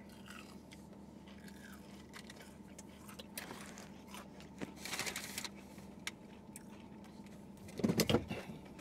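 Quiet chewing and crunching on crispy fried chicken tenders, with two short crunchy bursts in the middle. A brief voiced 'mm' near the end is the loudest sound.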